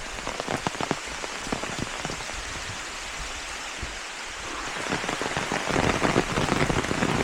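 Steady rain falling, with many small drops pattering and ticking on surfaces, growing a little louder in the second half.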